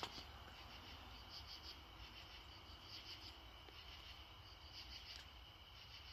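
Faint night insects, crickets, calling: a steady high trill with repeated short pulsed chirps above it.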